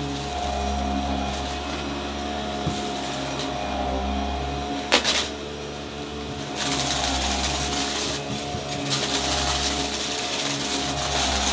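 Upright vacuum cleaner running with its brushroll going, a steady motor hum under a hiss of suction. There is one sharp crack about five seconds in, and the suction grows louder and brighter a little past halfway.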